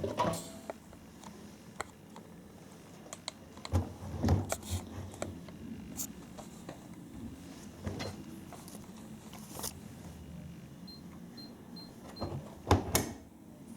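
Washing machine controls being set: scattered clicks and knocks from buttons and the program dial, then a quick run of about five short high beeps from the control panel, and a louder thump just before the end.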